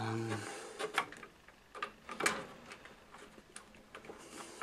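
Scattered light clicks and knocks of cable plugs and connectors being handled and tried in their sockets, the loudest about a second in and just after two seconds; a brief hummed voice at the very start.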